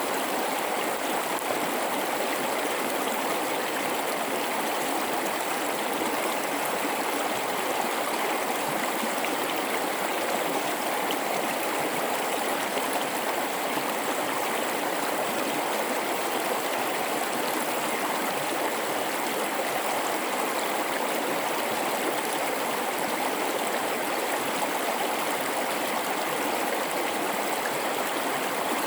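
River water rushing and babbling over rocks through a gorge, a steady, even flow.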